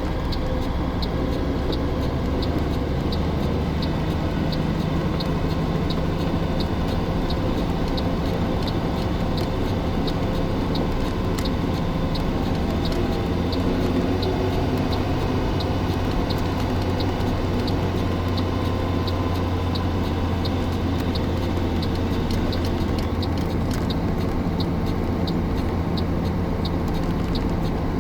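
Truck's diesel engine running steadily, with a light regular tick about one and a half times a second.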